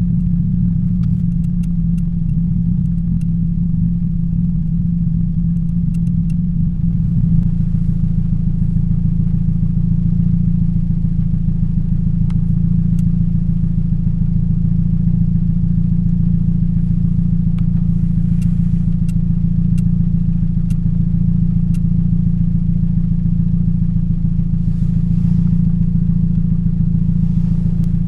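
2007 Toyota Yaris 1.5 L 1NZ-FE four-cylinder engine idling steadily with a misfire on cylinder 3, caused by a bad ignition coil.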